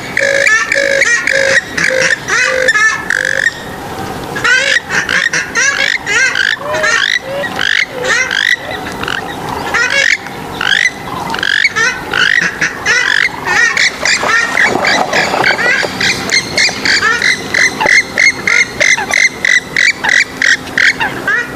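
Swamphens and moorhens calling: a dense, overlapping chorus of sharp repeated calls and rapid chattering series, with a fast, even run of notes near the end.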